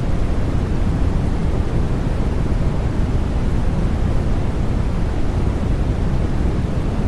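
Steady, unchanging sleep noise for babies, a deep, even rushing hiss with most of its weight in the bass and little treble.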